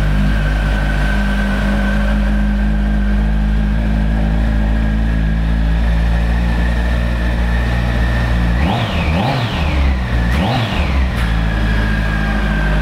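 2006 Kawasaki ZX-14's inline-four engine idling steadily through its stock dual exhaust, then revved three times in quick succession about nine seconds in before settling back to idle. It runs smoothly.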